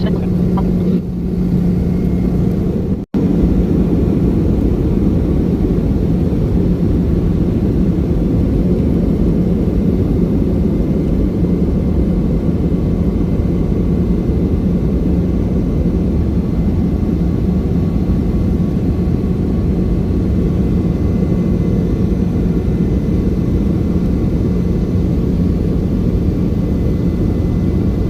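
Steady cabin noise of a Boeing 717-200 airliner, with the rush and hum of its rear-mounted Rolls-Royce BR715 engines and airflow, a constant low hum under a broad rumble. The sound cuts out for an instant about three seconds in.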